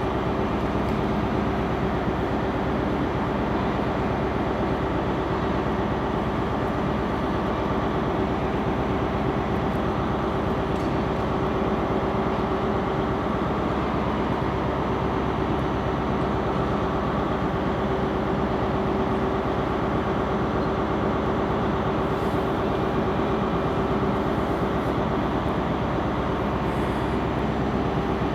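A train standing with its engine or on-board equipment running: a steady hum with one held mid-pitched tone that stays even throughout.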